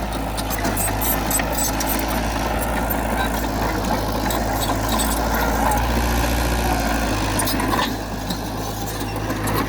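Diesel engine of heavy earthmoving equipment running steadily, with scattered metallic clicks and clinks over the low drone.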